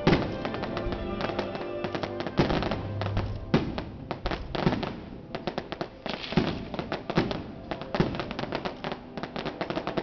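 Aerial fireworks bursting: a dense run of sharp bangs and crackles, with heavier reports about every second. Music plays underneath throughout.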